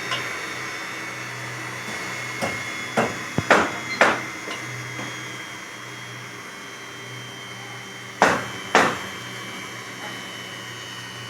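Construction-site noise: a machine running with a steady hum and a high whine, under sharp hammer-like knocks, four close together a few seconds in and two more near the end.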